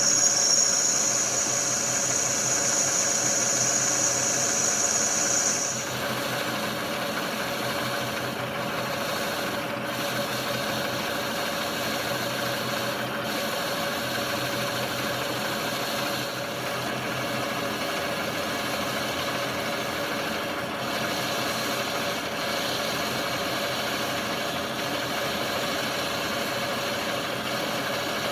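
Metal lathe running steadily while turning a steel wheel blank, with a high-pitched whine from the cut for about the first six seconds, which then stops while the machine carries on humming.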